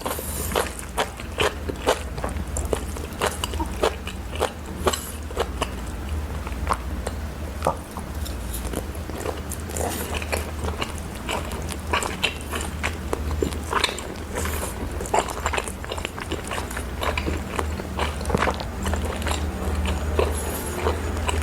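Close-miked eating: a person chewing and biting, with frequent short wet smacks and clicks in an irregular rhythm, over a steady low hum.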